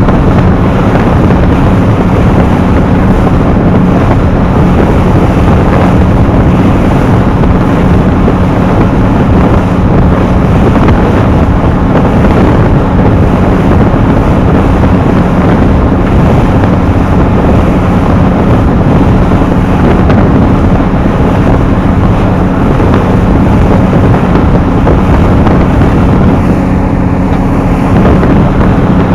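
Small harbour ferry's engine running steadily with a constant low hum, heavily overlaid by wind buffeting the microphone.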